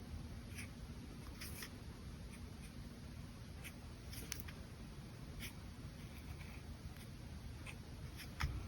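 Brush pen working on paper: short, faint scratchy strokes and taps at irregular intervals, with a louder soft knock near the end.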